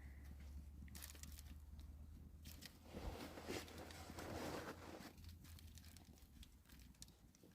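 Faint crunching and crackling with scattered clicks, thickest about three to five seconds in, over a steady low hum.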